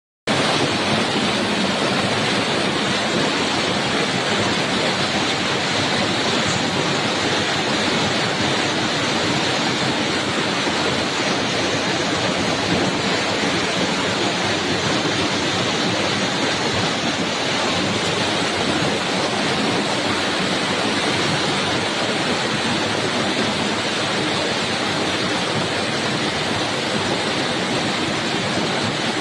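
Heavy rain falling, a steady, dense rushing noise.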